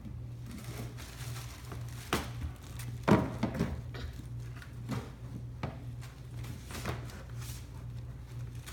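A few scattered knocks and clicks of things being handled, the loudest about three seconds in, over a steady low hum.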